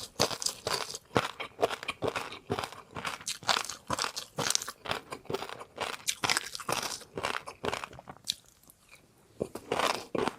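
Close-up chewing of crunchy food: crunch after crunch several times a second, with a short pause about eight seconds in before the crunching resumes.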